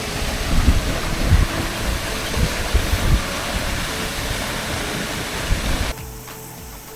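Waterfall rushing: a steady hiss of falling water, with gusts of wind buffeting the microphone. It cuts off suddenly about six seconds in.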